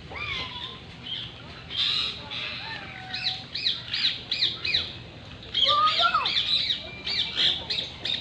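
Several birds chattering: quick, repeated high squawking chirps with a few lower sliding whistles, busiest about two-thirds of the way through.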